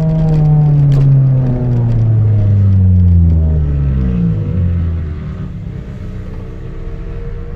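Chevrolet Celta 1.0 four-cylinder engine, breathing through a 4-into-1 header and a two-inch exhaust with no mufflers, coming down from a held high rev. The pitch falls steadily over about four seconds, then the engine runs low and steady.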